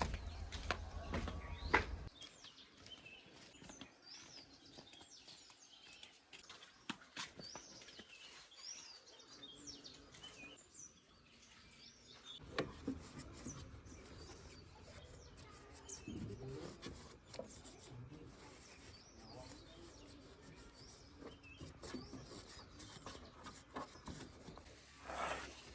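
Small birds chirping, with scattered faint clicks over a low background rumble that drops away about two seconds in and returns about halfway through.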